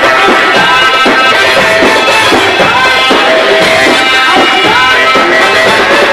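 Loud Egyptian sha'bi wedding music: a melody with sliding notes over steady drum and tabla-style percussion.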